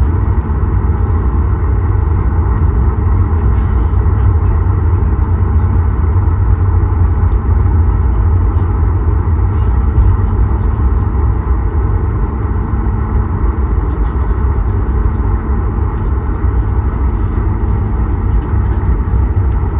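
Steady, loud rumble and rush of a Boeing 737 MAX 8's CFM LEAP-1B engines and airflow heard from inside the passenger cabin, deep and unchanging throughout.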